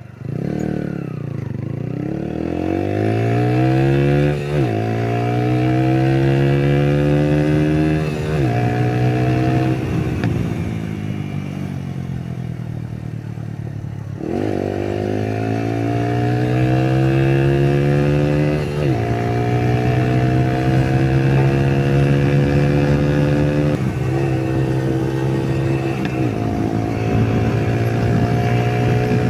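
Yamaha YBR 125's single-cylinder four-stroke engine on a test ride, accelerating with rising revs through several upshifts, easing off and slowing for a few seconds around the middle, then accelerating and shifting up again. It pulls without any audible misfire, following new clutch plates and a cleaned-out emission system.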